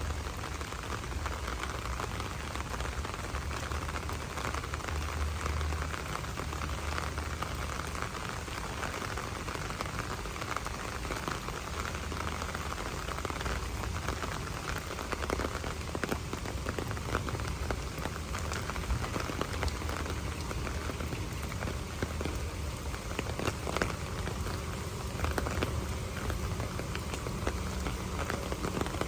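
Steady rain falling, with many small drop ticks scattered through it and a low steady rumble underneath.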